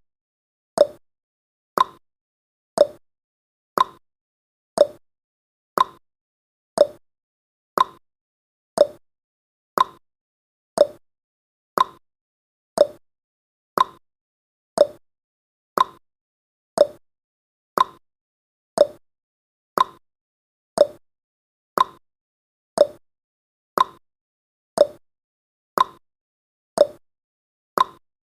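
Countdown timer's clock ticking sound effect: one sharp tick every second, alternating a higher tick with a lower tock.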